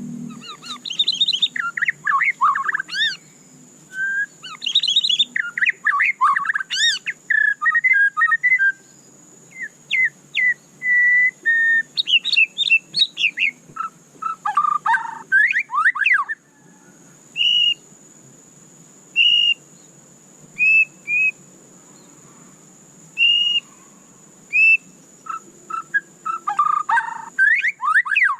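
White-rumped shama singing: dense, varied whistled phrases with quick up-and-down slides, then from about halfway a run of short single whistled notes spaced one to two seconds apart, with fuller phrases returning near the end.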